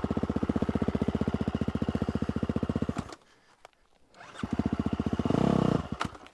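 250cc four-stroke single-cylinder dirt bike engine lugging at low revs with an even beat, then cutting out suddenly about three seconds in: a stall. After a short gap it fires and runs again for a moment before dropping off once more near the end.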